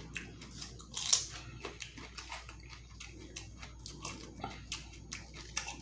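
Close-up eating sounds: chewing with wet mouth clicks and smacks, and a sharper bite or crunch about a second in.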